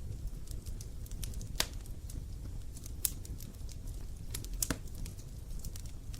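Campfire crackling: irregular sharp pops and snaps over a low, steady rumble of the burning fire, with a few louder pops spread through.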